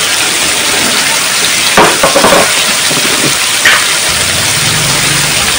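Food sizzling as it fries in a pan, with a short run of utensil clatters about two seconds in and another clatter a little later.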